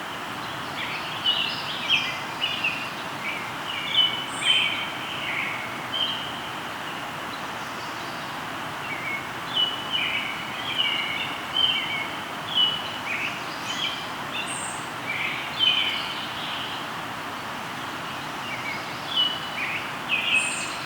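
Birds singing in quick chirped phrases over the steady rush of a flowing river. The song comes in bouts: a run of phrases, a pause of a few seconds, then a longer run, and a last short phrase near the end.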